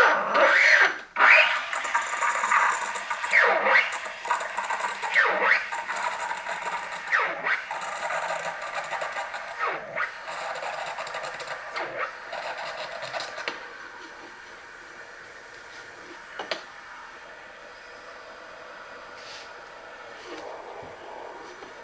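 Espresso machine steam wand hissing, with a sweep in pitch every second or two. About two-thirds of the way in it settles to a quieter, steady hiss.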